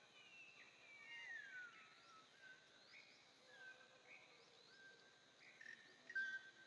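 A baby monkey's long cry that falls steadily in pitch over about two seconds, faint, with short bird chirps repeating in the background.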